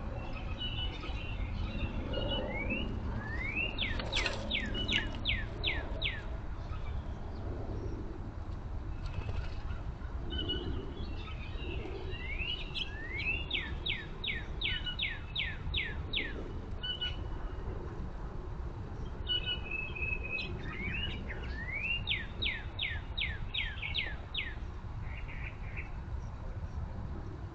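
Northern cardinal singing: three phrases of clear slurred whistles, each a rising note followed by a quick run of falling notes, with a pause of several seconds between phrases. Faint chirps from other birds and a steady low rumble lie underneath.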